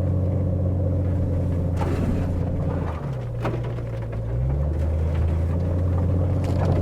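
Four-wheel-drive vehicle's engine running steadily while driving through snow. The engine note drops about three seconds in and rises again about a second and a half later, with a few light knocks.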